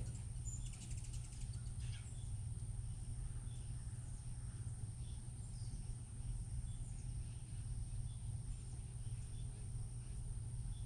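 Outdoor daytime ambience: a steady high-pitched insect drone with short bird chip notes about once a second over a low steady hum.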